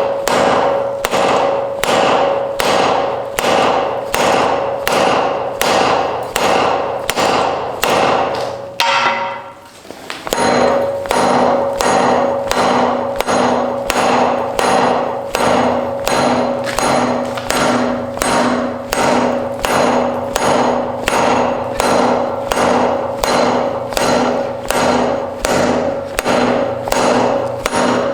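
Blacksmith's hammer striking iron on an anvil in a steady rhythm of about two blows a second, each blow ringing. There is a brief pause about nine seconds in, and after it the ring takes on a lower pitch.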